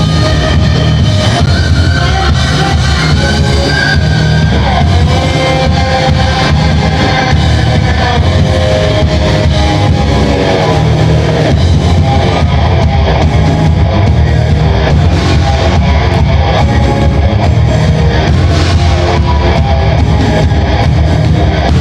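A rock band playing live, loud and steady, with electric guitar to the fore over bass and drums.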